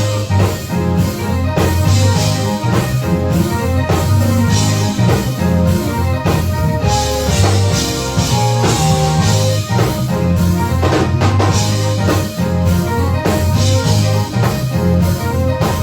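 Live gospel praise-break music: a drum kit keeps a busy, even beat of kick and snare over bass notes and sustained chords, with no singing.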